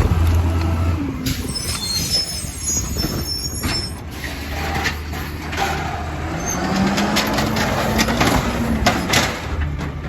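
Compost collection truck at work: a low engine hum that drops away about a second in, high squeals, then a slowly rising whine and a run of sharp clanks and knocks in the second half.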